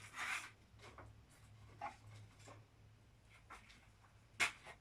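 Faint rustling and light clicks of hands handling small objects, with a louder rustle near the start and near the end, over a steady low hum.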